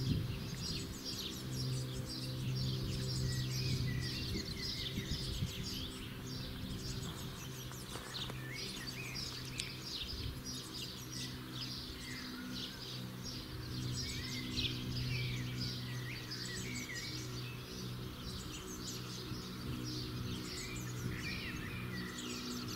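Songbirds chirping and singing, many short calls overlapping throughout, over a steady low hum.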